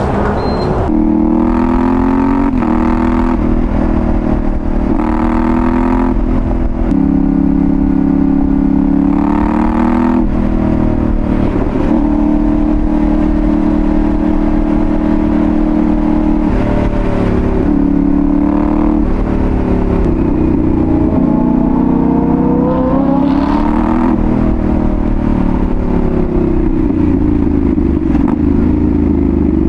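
Yamaha Ténéré 700's 689 cc parallel-twin engine through a Dominator GP1 full exhaust, on the move. It pulls up through several gears, the revs dropping at each shift, then holds a steady cruise. Near the end it revs up once more, then falls away as the bike slows.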